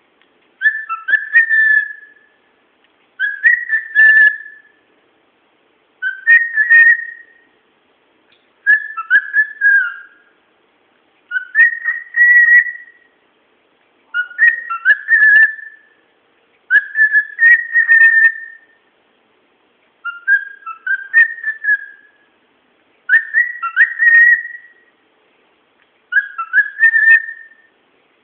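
Pet cockatiel whistling the same short tune over and over, about ten times, each phrase a quick run of short notes that climbs to a held note and comes every two and a half to three seconds.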